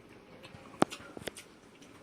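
Eating sounds: soft chewing with a few sharp clicks, the loudest a little under a second in and two smaller ones soon after.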